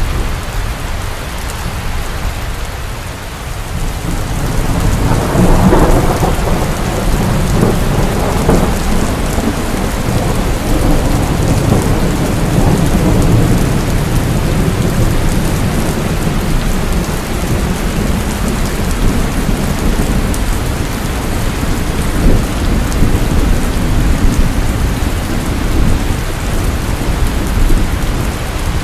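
Heavy rain falling steadily, with thunder rumbling low underneath and swelling louder about five seconds in.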